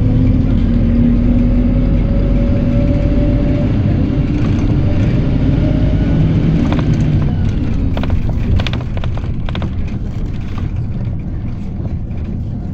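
A PAZ-320405-04 "Vector Next" city bus on the move: its engine pulls with a slowly rising pitch for the first few seconds, then eases off and grows quieter about two-thirds of the way through. Several sharp clicks and knocks, typical of body rattles, come in the middle.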